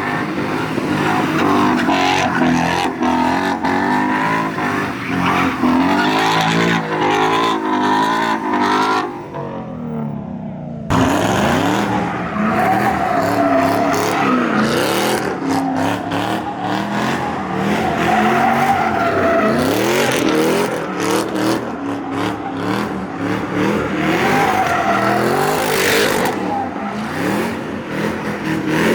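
A car spinning donuts: its engine revs up and down hard while the tyres squeal and skid. The sound dips briefly about nine seconds in, then comes back loud.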